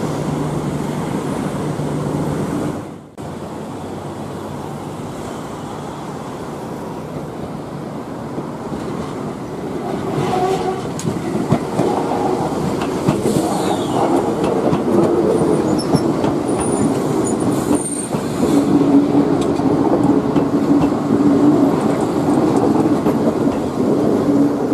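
Enoshima Electric Railway (Enoden) electric train running past close by on its track beside a road, growing louder in the second half.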